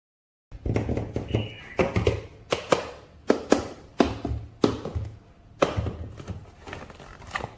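Irregular sharp taps, clicks and knocks of hard plastic being handled, with a low rumble of handling noise underneath, starting about half a second in.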